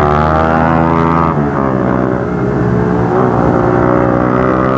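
Motorcycle engine running while riding, a steady exhaust note whose pitch shifts slightly a couple of times.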